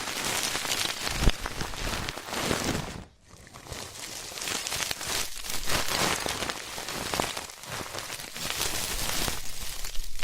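Close-miked ear-cleaning ASMR: dense scratching, rustling and crackling at the ear of the microphone. There is a brief break about three seconds in.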